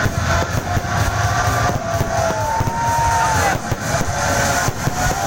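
Noisy outdoor crowd and traffic din with engines running and scattered sharp cracks. Through it come several whistling tones that rise, hold and fall away, each lasting about a second.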